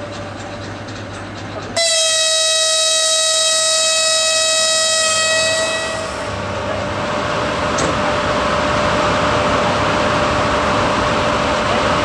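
EP1P electric locomotive sounding its horn: one long blast of about four seconds that starts suddenly, with many tones stacked together. A single steady tone then carries on over a growing rumble as the locomotive and passenger train pull away.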